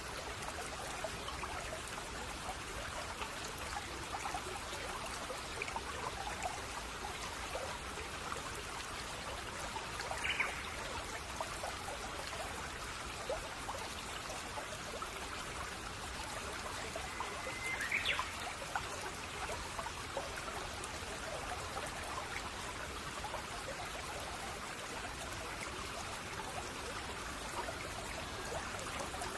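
Shallow babbling brook trickling steadily over stones, with two brief bird chirps, about ten and eighteen seconds in.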